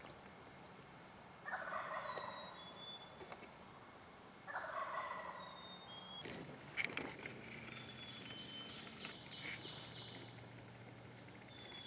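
Wild turkey gobbling twice, about three seconds apart, each gobble a rattling call about a second long. Some short high whistled bird notes and a few sharp clicks come about halfway through.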